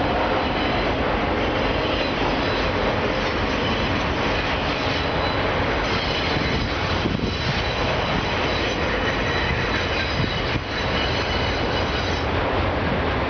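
Union Pacific autorack freight train rolling past on a descending grade: a steady loud rumble of wheels on rail, with a thin high wheel squeal over it.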